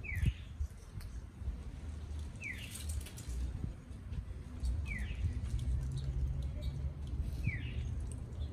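A bird's short, falling chirp, repeated four times about every two and a half seconds, with faint sharp clicks and a low rumble underneath.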